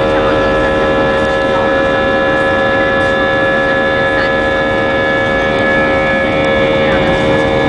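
Airbus A320's jet engines running steadily, heard inside the cabin: an even, loud noise with several steady whining tones over it.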